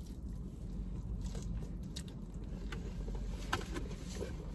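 Biting and chewing a crispy-coated Korean corn dog, with a few faint crunches, over the low steady rumble of a car's cabin.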